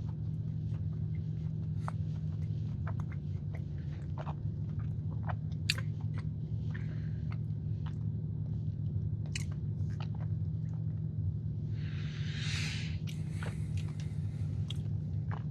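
Close-miked chewing of a soft, cakey marshmallow sandwich cookie, with small wet mouth clicks, over a steady low hum. A short hiss about twelve seconds in.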